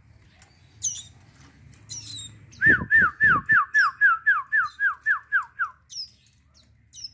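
Young cigun birds calling: a few sharp high falling chirps, and in the middle a loud run of about a dozen quick falling notes, about four a second, that stops about three seconds later.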